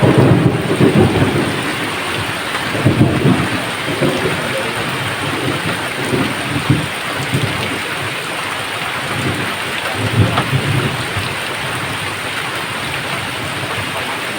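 Steady heavy rain with rolling thunder. The low rumbles are strongest at the start, swell again about three seconds in and once more around ten seconds in.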